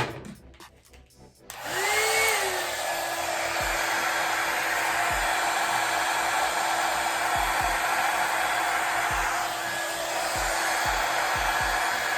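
Conair hot-air brush hair dryer switched on about a second and a half in: its motor whines up to speed, then it runs with a steady rush of air.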